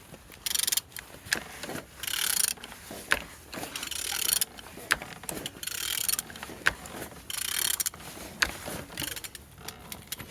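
Nissan YD22DDTI 2.2-litre four-cylinder turbodiesel engine being turned over in repeated strokes: about five bursts of clicking and metallic rattling with sharp clicks between. It turns freely, a sign that the engine is not seized.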